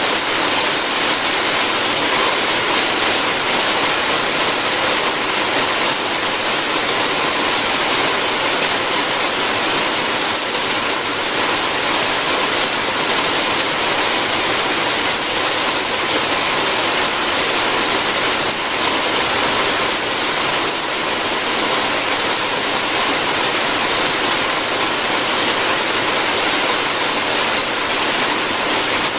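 Steady rain falling on a roof, an even hiss with no pauses.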